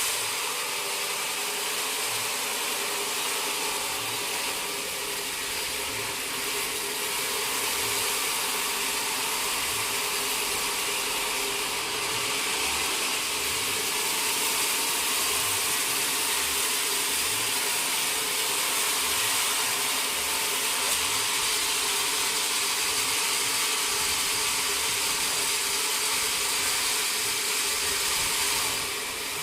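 Sawmill machinery running steadily, a constant mechanical noise with a high hiss and a steady hum, and faint low knocks here and there.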